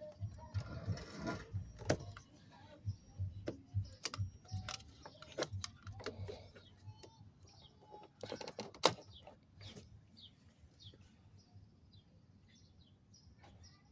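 Scattered clicks and knocks of hand work on a steering column, the loudest about nine seconds in, with faint bird chirps in the latter part.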